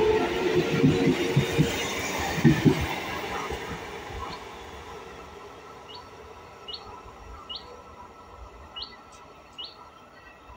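ICF EMU local train passing close by: its wheels knock over the rail joints, and the sound fades away over the first three seconds. Then a bird chirps again and again in short high notes, a little under a second apart.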